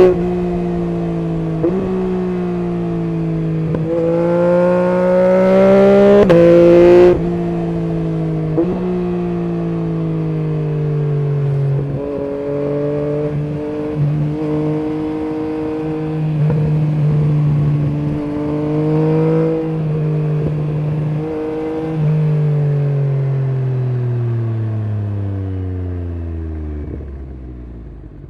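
2023 Yamaha MT-09 SP's three-cylinder engine through an Akrapovic full exhaust system, accelerating hard through several upshifts, each one a quick drop in pitch before it climbs again. It then runs at steady part throttle with small swells, and near the end rolls off, the pitch falling steadily and the sound fading as the bike slows.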